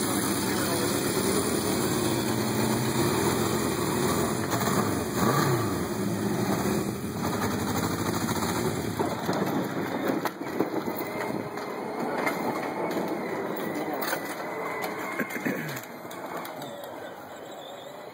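1976 Honda CB750 F1's air-cooled inline-four engine running through its four-into-one exhaust, idling with a couple of throttle blips that rise and fall in pitch. It gets quieter near the end.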